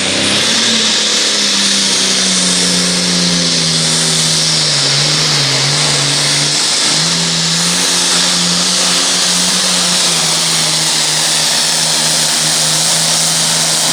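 International 1066 pulling tractor at full throttle, dragging a weight-transfer sled down the track. The engine note holds steady, sags slightly around the middle and climbs back about seven seconds in, under a loud high-pitched hiss.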